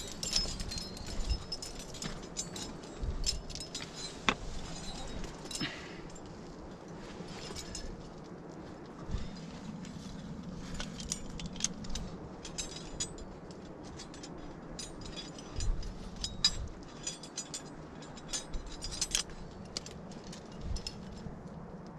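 Metal climbing hardware (carabiners and gear on a harness) clinking and jangling in irregular sharp clicks as the climber moves.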